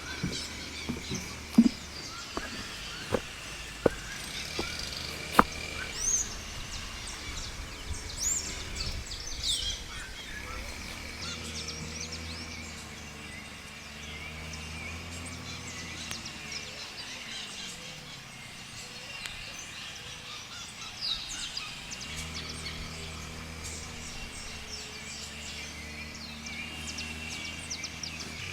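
Outdoor forest ambience with birds chirping in short high calls, several sharp clicks or knocks in the first few seconds, and a low droning hum with slowly sliding pitch through the second half.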